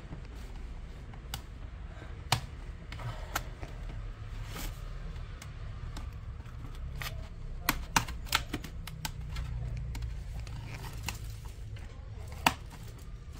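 Scattered sharp clicks and snaps of hand tools working on a Lenovo ThinkBook 15IIL laptop's housing as it is taken apart, irregular and a second or more apart, over a low hum.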